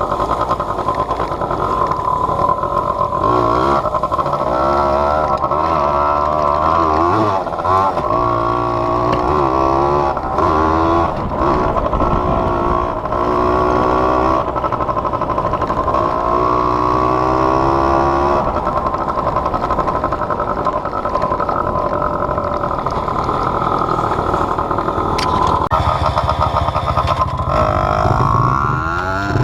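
Off-road vehicle engine running under a chest-mounted camera, its pitch rising and falling with the throttle, then revving up sharply near the end.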